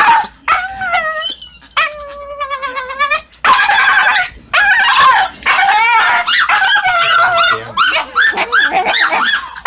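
A dog whining and yelping in a quick string of high cries that rise and fall, one held for about a second around two seconds in.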